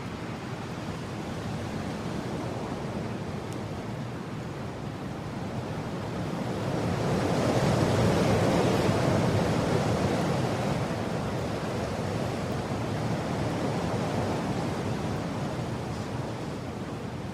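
Strong mountain wind blowing, a steady rush that swells into a loud gust about halfway through and then slowly eases.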